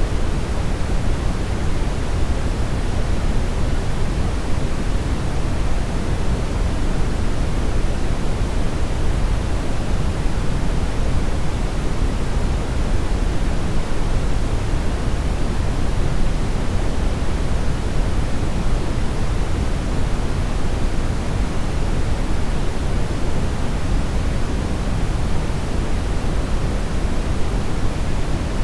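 Brown noise: a steady, even rumbling hiss with most of its energy in the low end.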